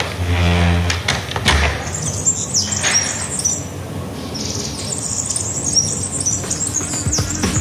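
Small birds chirping: clusters of short, high chirps with quick downward slides, starting about two seconds in. It opens with a low, steady pitched tone that fades out within the first second.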